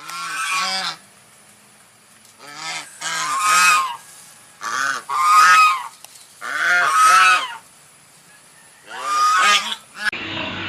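Goose honking: about five short bursts of loud, nasal honks, each burst of two or three calls, with brief pauses between.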